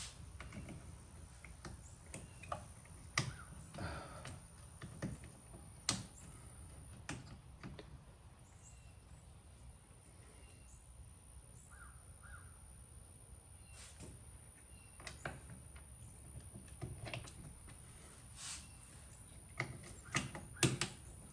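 Faint, scattered clicks and taps of small metal hardware, as a mirror clamp and its bolts are handled and fitted onto a utility vehicle's frame.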